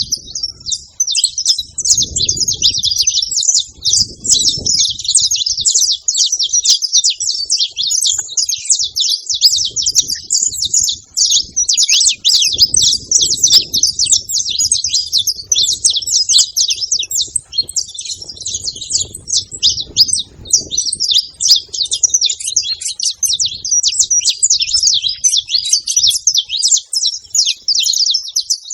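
Saffron finches chirping and chattering without pause, many quick, high calls overlapping one another.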